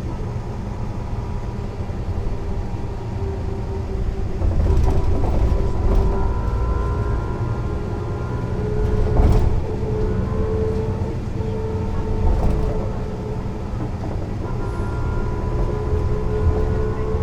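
Mercedes-Benz O 405 NÜ city/intercity bus on the move: a steady low diesel rumble with a whine that drifts up and down in pitch. The sound swells a few times as the bus pulls, and there is a single sharp knock about halfway through.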